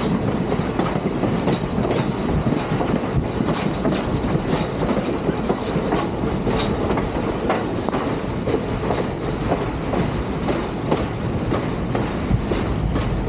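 Train running along the track: a steady rumble of the rail cars with sharp clicks of wheels passing over rail joints at uneven intervals.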